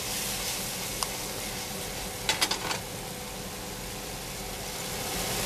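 Egg omelette frying in a pan with a steady sizzle, with a single click about a second in and a short run of clicks about two and a half seconds in.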